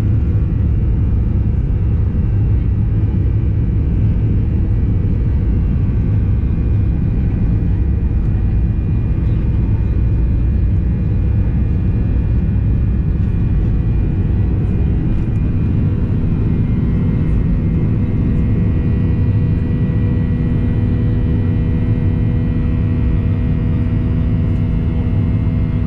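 Cabin noise inside a Boeing 737-800: a steady, loud low rumble of its CFM56-7B engines and the airflow, with steady engine tones coming through more clearly in the second half.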